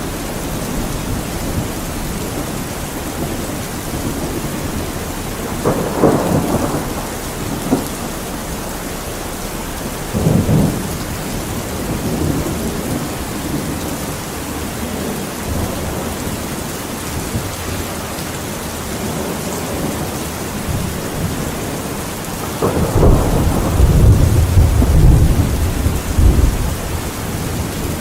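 Steady rain with rumbles of thunder: short ones about six and ten seconds in, and a longer, louder roll near the end.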